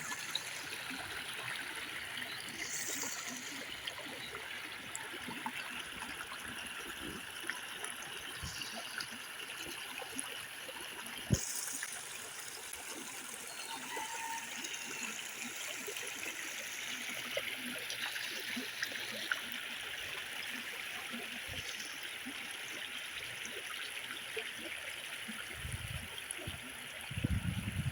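River water running steadily, with a single sharp click about eleven seconds in and a few low thumps near the end.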